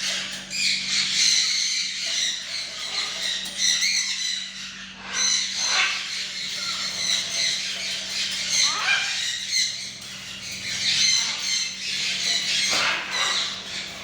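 Macaw squawking, with harsh calls about every three to four seconds amid continual higher chirping. A low steady hum sits underneath.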